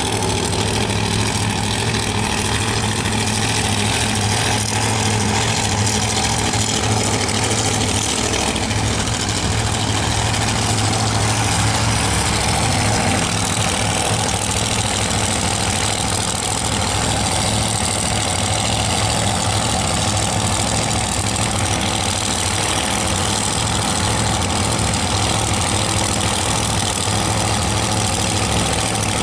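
Drag-racing Pontiac Firebird's engine idling steadily after its burnout, waiting to stage for a run.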